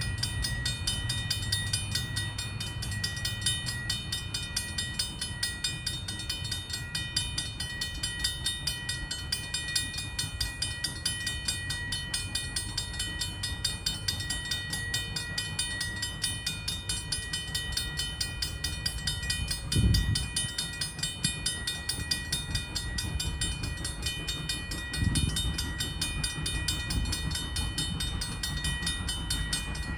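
Railroad grade-crossing bell ringing steadily over the low rumble of a train at the crossing, with a few heavy low thumps about two-thirds of the way in and near the end.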